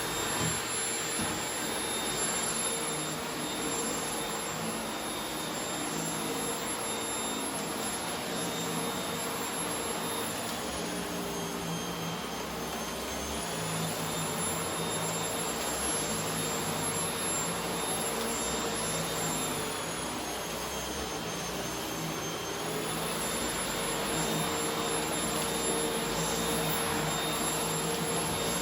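Corded paper-bag vacuum cleaner running with a steady motor whine and rushing air. Twice, about 11 and 20 seconds in, the whine drops slightly in pitch for a couple of seconds before it recovers.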